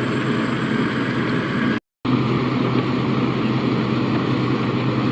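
A vehicle engine running steadily at idle with a constant low hum. The sound cuts out completely for a moment about two seconds in, then resumes unchanged.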